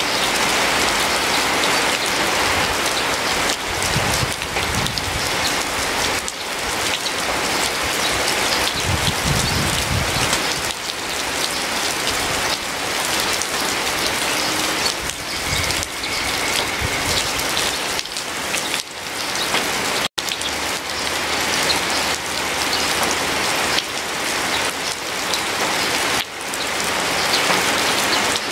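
Steady rain: a dense, even hiss with many close drops pattering through it. It cuts out for an instant about two-thirds of the way through.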